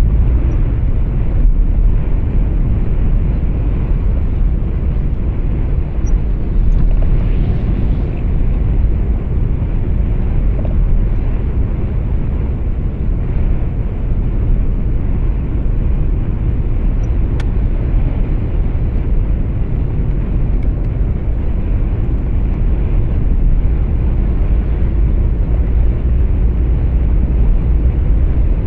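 Steady low rumble of road and engine noise heard inside a moving truck cab.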